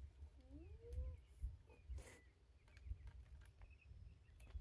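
Near silence with faint bird calls: a couple of short rising calls about half a second in, faint chirps scattered through, and a few light clicks.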